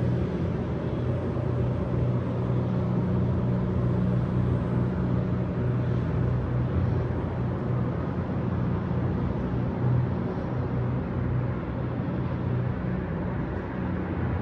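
Steady city street ambience: a low rumble of road traffic with a constant drone underneath, no single event standing out.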